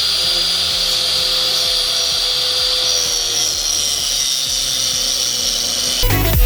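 A power tool running with a steady high-pitched whine, cutting through stuck metal on a car's front suspension. Dance music with a beat comes in near the end.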